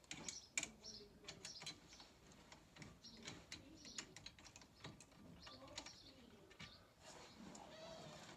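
Faint, irregular small clicks and taps of bolts and hand tools being fitted during reassembly of a stairlift's motor and gearbox.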